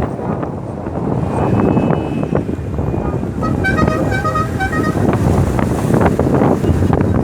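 Wind buffeting the microphone, with a quick run of short horn beeps at changing pitches about halfway through, like a vehicle horn playing a little tune.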